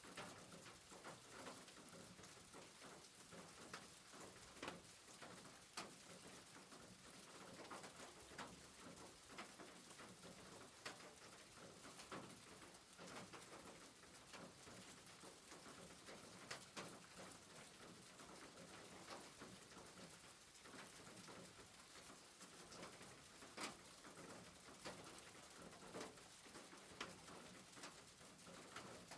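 Faint rain on a roof: a steady hiss with many individual drops tapping irregularly.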